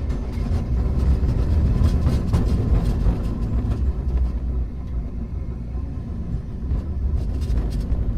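Hankai Tramway car 351 running along the track: a steady low rumble of wheels and running gear, with scattered short knocks and clatter from the wheels on the rails.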